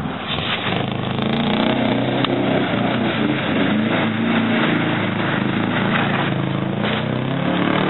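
Subaru Legacy 1.8's flat-four engine revving up and down as the car drifts on snow, its pitch rising and falling in repeated pulls.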